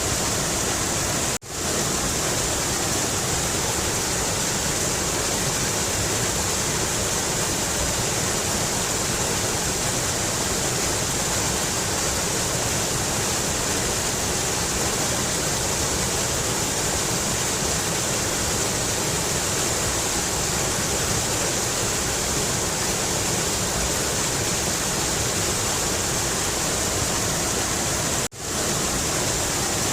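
Mountain river rushing steadily, with a momentary dropout about a second in and again near the end.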